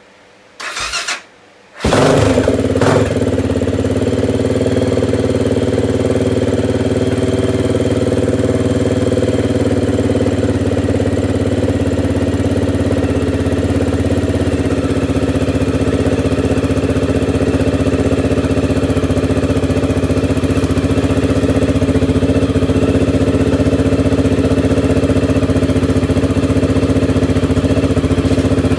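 Honda XR650L's single-cylinder four-stroke engine starting: a short first burst, then it catches about two seconds in and idles steadily. This is the engine running again after a rebuild for a snapped timing chain.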